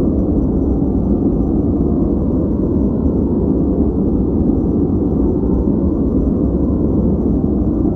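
Continuous white-noise track for focus, heavy in the low range, so it comes across as a deep, even rumbling hiss with no changes.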